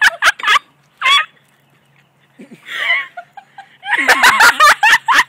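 Harsh coughing and gagging in quick bouts from someone who has taken a spoonful of dry ground cinnamon (the cinnamon challenge), with the powder in the nose and throat.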